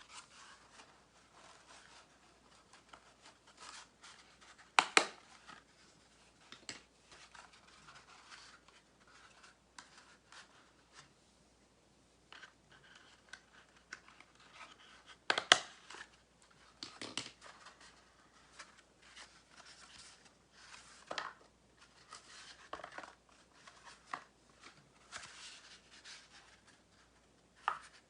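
Cardboard tubes being handled and rubbed, with several sharp clicks of a hand stapler pressed through them, the loudest a quick double click about five seconds in and another near the middle.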